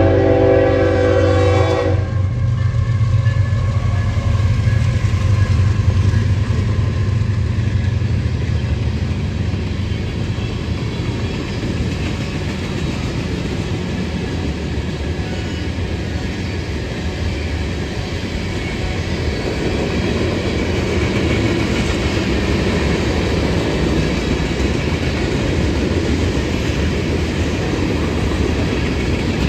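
A train horn sounds and cuts off about two seconds in. It is followed by the steady rumble and rail clatter of a train rolling past.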